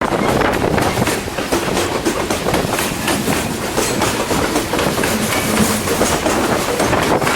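Loaded freight cars rolling past on the rails, with a steady rapid clicking and clacking of wheels over the track.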